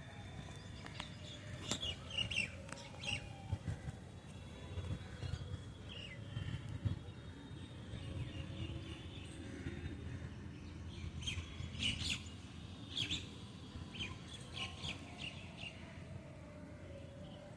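Birds chirping in short, scattered calls, coming in clusters near the start and again in the second half, over a low background rumble.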